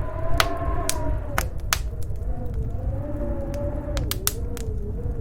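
Storm wind howling in a slowly wavering tone over a steady low rumble, with irregular sharp pops and crackles from a wood fire burning in a fireplace.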